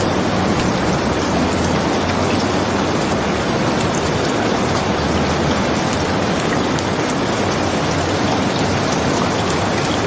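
Steady rain falling, a dense, even hiss with faint scattered ticks of drops.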